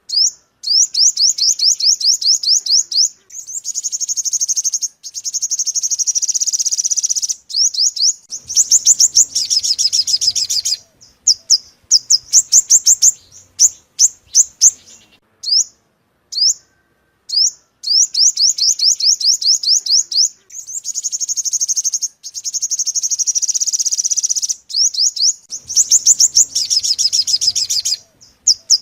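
Yellow-bellied sunbird calling, a lure recording: fast trills of high, sharp, down-slurred notes lasting a few seconds each, broken by single chips. The whole sequence repeats roughly every 17 seconds.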